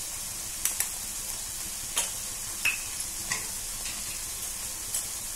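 Thick onion and tomato paste frying in oil in a kadai over a high flame: a steady sizzle with about five sharp pops from the bubbling paste.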